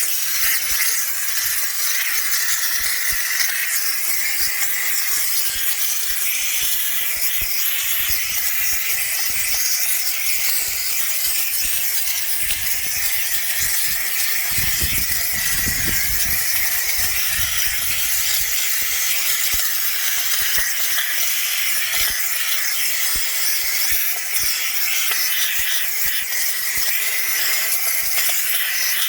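A car-detailing cleaning machine running with a steady, loud hiss.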